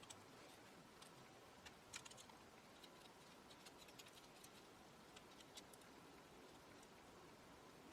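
Near silence: faint room hiss with scattered light clicks and taps at an irregular pace, a few a second, as of small objects being handled on a workbench.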